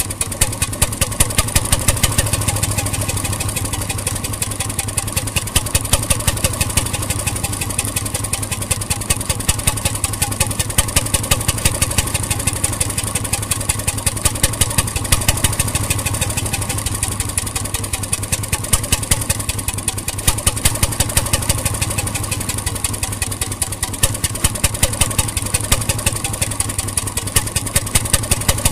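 1921 RSM 3½ HP hotbulb marine engine running steadily, a rapid even beat of firing strokes with a slight regular rise and fall in loudness.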